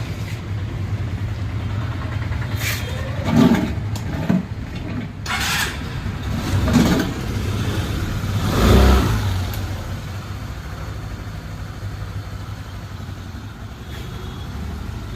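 Suzuki Access 125 scooter's single-cylinder four-stroke engine idling, revved in four short blips in the first nine seconds, then settling back to a steady idle. It is running with a newly replaced timing chain, rocker arms and camshaft.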